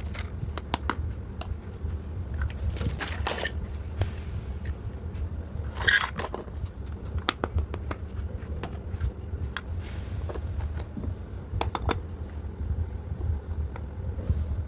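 Small plastic toy pieces and packaging being handled: scattered clicks and taps with short crinkling scrapes, over a steady low hum.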